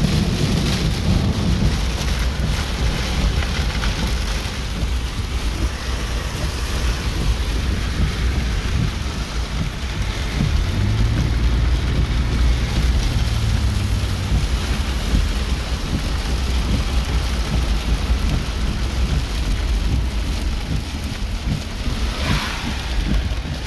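Heavy rain beating on a car's roof and windshield, heard from inside the cab, over a steady low rumble.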